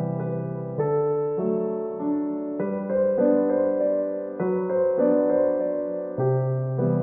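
Background piano music: a gentle, slow piano piece with notes and chords changing about every half second to second.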